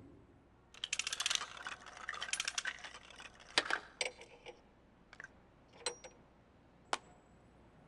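Cartoon sound effects of coins and a coin-operated capsule vending machine: a quick rattling run of clicks for about two seconds, then about half a dozen separate sharp clicks and clinks, a few with a short metallic ring.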